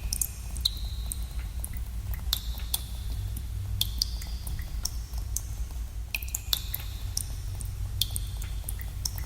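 Water drops falling into a pool in a cave, irregular plinks about twice a second, several with a short ringing tone, over a steady low rumble.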